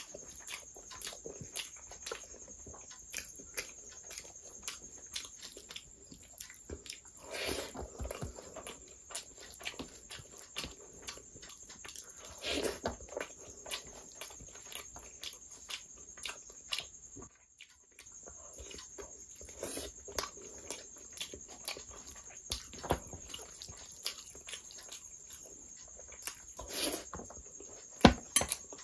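Close-miked mouth sounds of a person eating rice and curry by hand: wet chewing and lip smacks in a steady run of small clicks, with a few louder smacks, the sharpest near the end.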